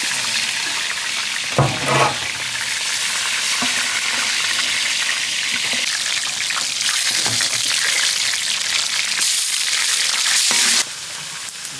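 Spiny lobsters deep-frying in a large wok of hot oil: a steady sizzle, with a couple of short knocks about two seconds in. The sizzle drops off suddenly near the end.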